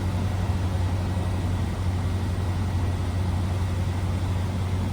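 Steady drone of a Cessna 172R's four-cylinder Lycoming engine and propeller, heard inside the cabin.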